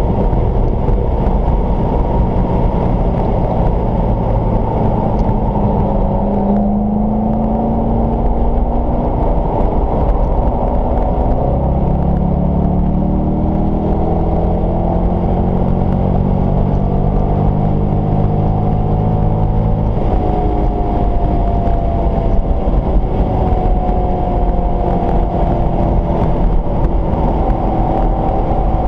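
Car engine and road noise at speed, heard inside the cabin and muffled. The car slows for a corner, then accelerates hard. The engine pitch climbs steadily, drops suddenly at a gear change about two-thirds of the way through, then climbs again.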